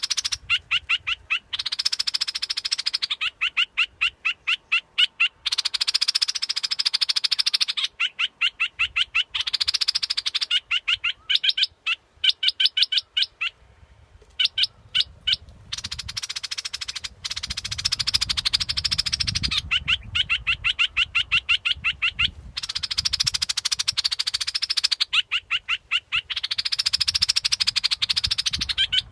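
Bulbul song played as a bird-luring call: runs of rapid short chirps, about ten a second, alternating with harsh buzzy trills about two seconds long, repeating over and over.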